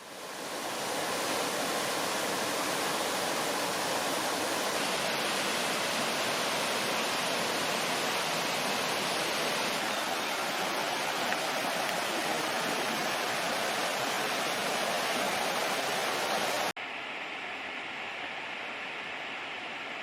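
Small forest waterfall running full, a steady rush of falling water. The uploader puts its strong flow down to the previous days' rain. Near the end it cuts abruptly to a quieter, duller rush.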